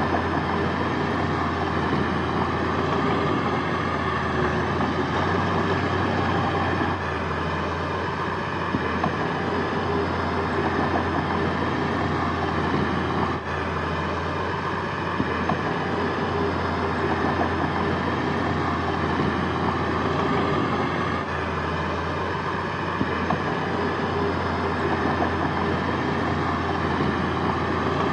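Heavy diesel earthmoving machinery running steadily, a continuous engine drone with no pauses.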